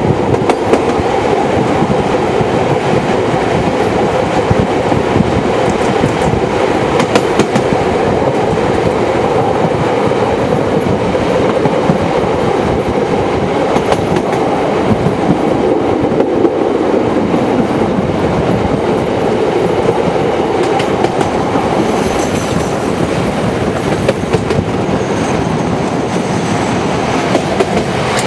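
Passenger train carriages running along the track, heard from the carriage side: a steady rumble and rattle with quick clicking of the wheels over the rail joints. A few faint high squeals come in about three-quarters of the way through.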